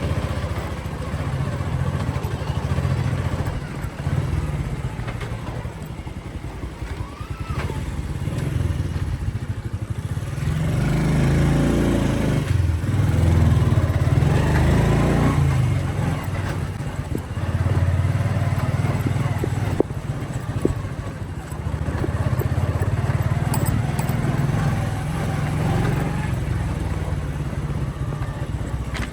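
Motorcycle engine running steadily while riding, louder for a few seconds around the middle as it pulls harder.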